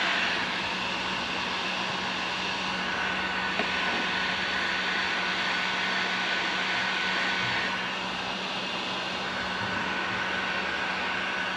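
Heat gun running: a steady blowing hiss with a motor hum and a faint whine, easing slightly about eight seconds in. It is reheating the lifting corner of a hull patch to soften it back down.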